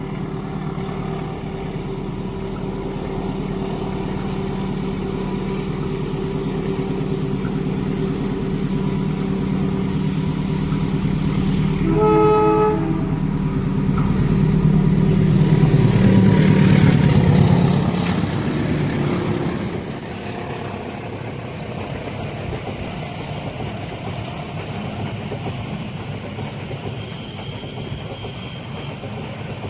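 Diesel locomotive approaching and passing, its engine running steadily, with one short horn blast about twelve seconds in. The engine is loudest around sixteen to eighteen seconds, then the steady rumble of the train's cars rolling by continues.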